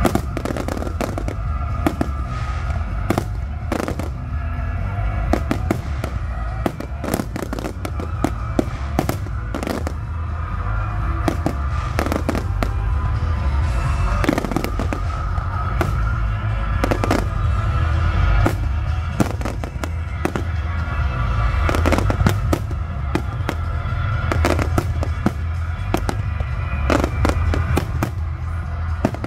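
Aerial fireworks exploding in quick succession, dozens of sharp bangs and crackles over a constant low rumble.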